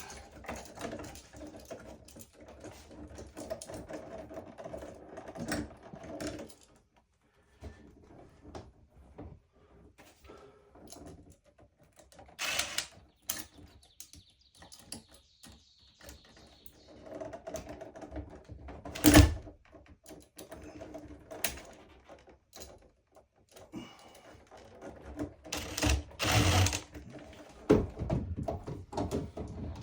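Irregular clicks, taps and knocks of hand work with tools and materials, with one sharp, loud knock about two-thirds of the way through.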